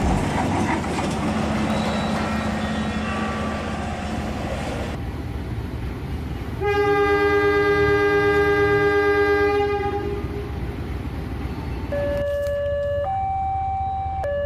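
Train running noise, then a train horn held for about three seconds starting about seven seconds in. From about twelve seconds a two-tone hi-lo siren alternates between a lower and a higher pitch about once a second.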